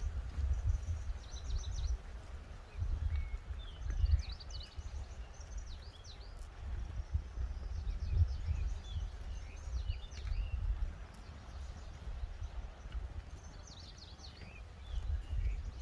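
Small birds chirping in short, repeated calls, over a low, uneven rumble.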